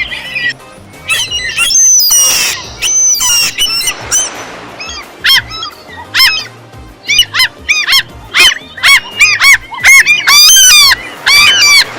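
Gulls calling: a run of short, arched, squealing cries, a few at first and then crowding together, loud and almost continuous in the last few seconds. A rushing noise sits under the calls in the first half.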